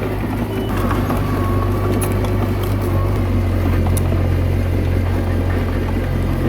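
Komatsu D21A bulldozer's diesel engine running steadily, with a few light metallic clicks around two and four seconds in.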